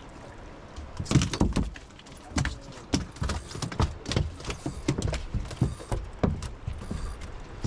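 Irregular knocks and thumps on a small fishing boat, starting about a second in and going on unevenly.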